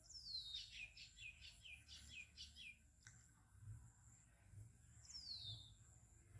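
Faint bird calls: a falling whistle, then a quick run of about seven short high chirps, and the falling whistle again about five seconds in. A single click about three seconds in.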